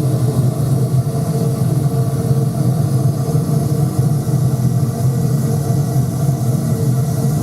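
Oil-fired foundry furnace burner running on a mixed oil, diesel and petrol fuel: a steady, unbroken low rumble of burning flame.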